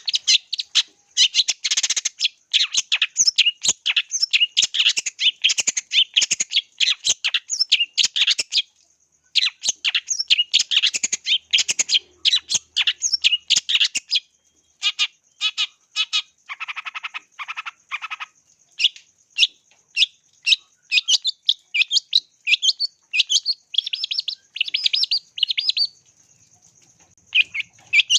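Long-tailed shrike (cendet) singing nonstop: rapid strings of short, high chirping notes in bursts, broken by brief pauses about a third of the way in and near the end. Just past halfway comes a run of lower, evenly spaced notes, and a faint steady high whine sits underneath throughout.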